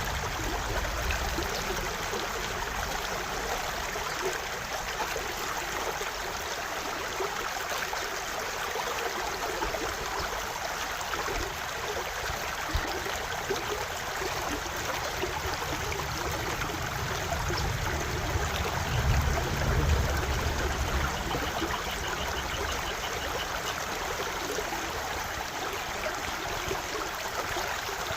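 Stream water running steadily, with a brief low rumble swelling about two-thirds of the way in.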